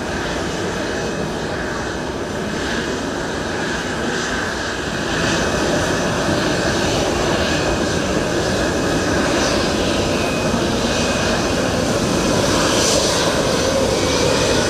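Jet aircraft engines heard as a plane flies past, a steady rushing noise that grows louder about five seconds in and again near the end.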